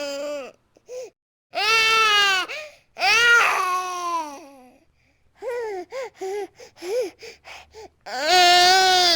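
A baby crying in long rising-and-falling wails. In the middle the wails break into a string of short, choppy sobs, and near the end comes another long loud wail.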